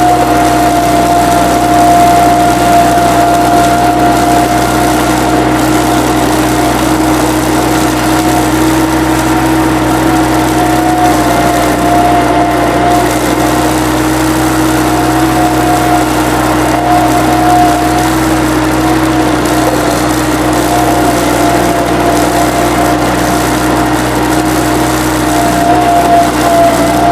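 Engine of work machinery running steadily at constant speed, with a steady whine on top that wavers slightly.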